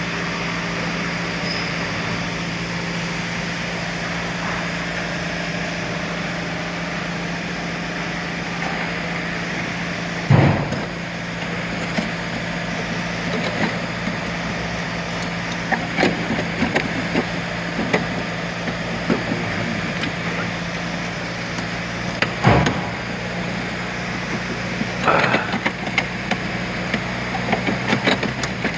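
A steady mechanical hum, with a few sharp knocks and a run of clattering near the end.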